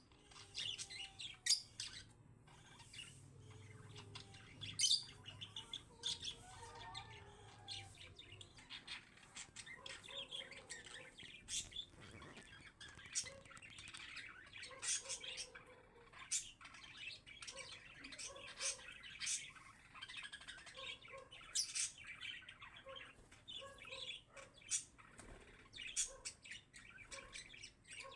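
Parakeets in an aviary chirping and calling, many short sharp calls overlapping one after another throughout.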